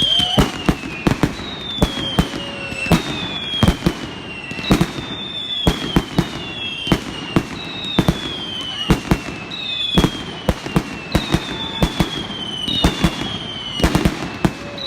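Fireworks going off: a run of whistling shots, each a falling whistle, about one a second, mixed with many sharp bangs and crackles.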